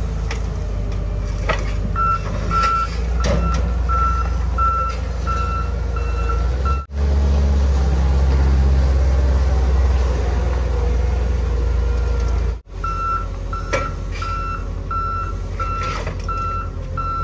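Heavy loader's engine running with its reversing alarm beeping steadily, about one and a half beeps a second. Between two abrupt cuts in the middle the engine runs louder with no beeping, then the beeping returns.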